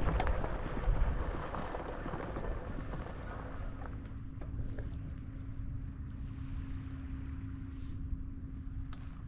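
Insect chirping in short regular pulses, about three a second, growing clearer about three seconds in, over a low wind rumble on the microphone. A steady low hum sets in at the same moment.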